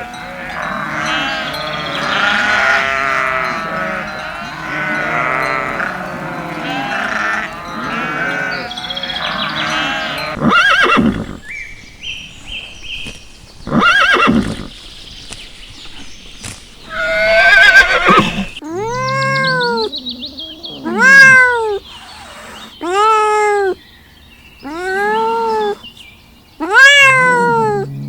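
Sheep bleating in a flock, many overlapping calls, for about the first ten seconds. After a few separate loud sounds, a cat meows over and over, roughly one long rising-and-falling meow every two seconds.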